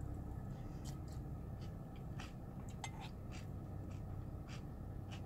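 Close-up chewing of a mouthful of Cocoa Pebbles cereal in milk: faint, irregular soft crunches and clicks about twice a second, over a steady low hum.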